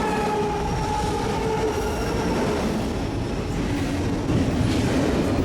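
BNSF intermodal freight train rolling past with a steady rumble of wheels on rail. A pitched whine, evenly stacked in tone, fades out about halfway through.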